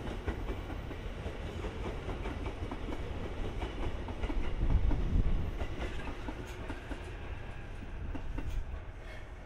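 E257 series electric train rolling by, its wheels clattering over rail joints with a low rumble that swells to its loudest about halfway through.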